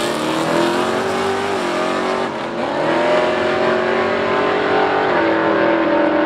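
Two V8 Mustangs, a Coyote 5.0 and an LS-swapped Fox body, at full throttle down a drag strip. Their engines climb in pitch and drop back at each upshift as they pull away.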